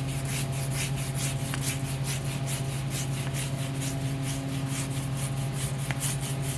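Stiff-bristled brush scrubbing caked grease off tractor metal in quick back-and-forth strokes, about three a second, over a steady low hum.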